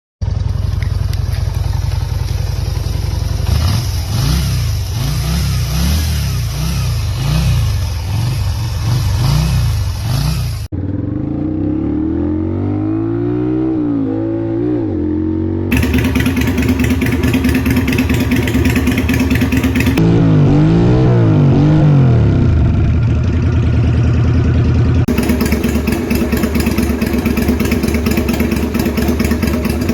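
Yamaha V-Star 250's air-cooled V-twin running through open straight pipes, idling and revved in quick throttle blips that rise and fall in pitch, in several separately recorded stretches.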